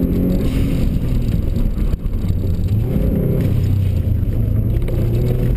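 Subaru Impreza's flat-four boxer engine heard from inside the cabin, running loud and steady as the car is driven through a sprint course. Its sound dips briefly about two seconds in.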